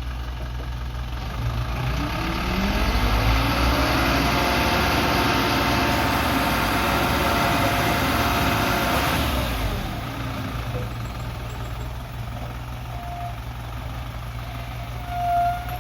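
Dump truck's diesel engine idling, then revving up about two seconds in, its pitch rising and holding loud for several seconds before dropping back to idle about ten seconds in. A short beep near the end.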